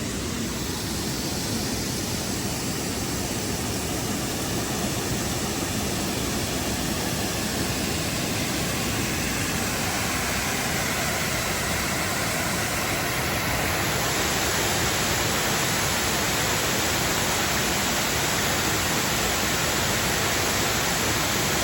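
Waterfall rushing: a steady, even wash of water noise that gets a little louder past the middle.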